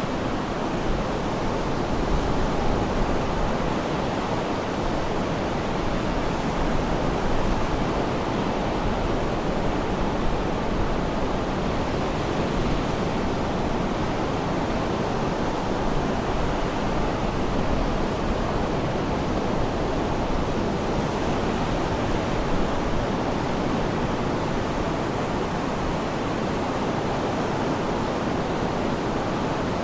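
Sea waves washing onto the shore in a steady, even rush of noise, with no distinct bird calls standing out.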